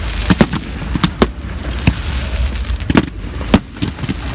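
Fireworks display: about ten sharp bangs from shells bursting, at irregular intervals.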